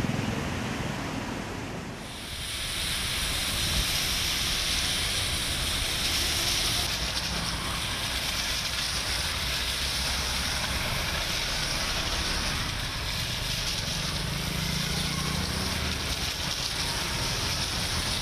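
Traffic on a waterlogged street in heavy rain: vehicle engines and tyres going through standing water, giving way about two seconds in to a steady hiss of rain falling on the wet road.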